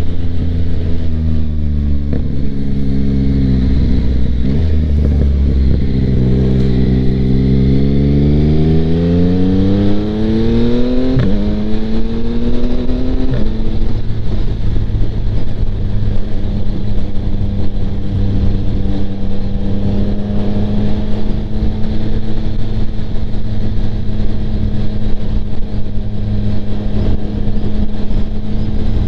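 2025 Yamaha MT-09's 890cc three-cylinder engine through a Kelpi Flanker aftermarket exhaust with the baffle in, heard from inside the rider's helmet. The engine climbs in revs, shifts about eleven seconds in, climbs briefly again, then holds a steady pitch at cruising speed, with steady wind noise.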